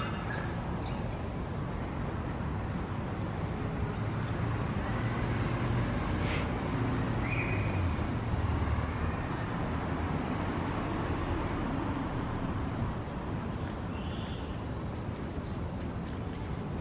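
Scattered short, high bird calls, a few seconds apart, over a steady low rumble, with one sharp click about six seconds in.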